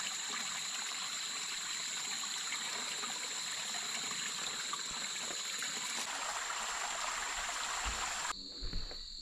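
Mountain spring water trickling off a leaf into a basin, with a steady high insect drone behind it. A little after eight seconds the water sound cuts off abruptly, leaving the insects and a few low knocks.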